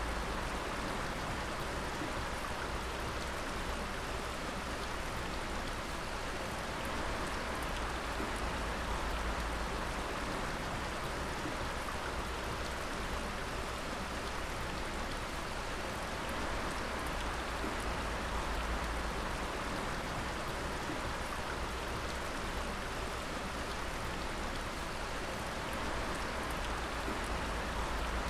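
Water dripping in a dense, steady patter of many drops, with no change in level.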